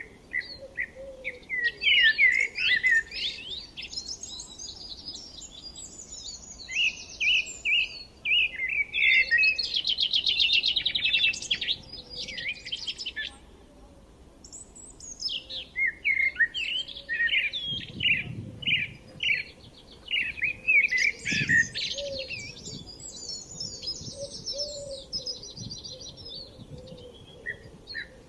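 Several songbirds singing and chirping in overlapping phrases, with a fast buzzy trill about ten seconds in and a short lull a few seconds later.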